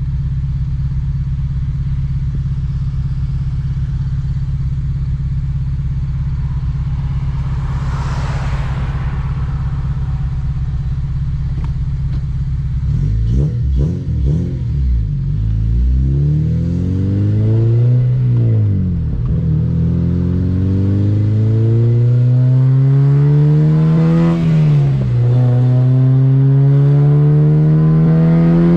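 2007 Honda Civic Si's 2.0-litre four-cylinder engine idling steadily, then pulling away and revving up hard through the gears. The engine note climbs, drops sharply at an upshift about two-thirds of the way in and again near the end, then climbs again.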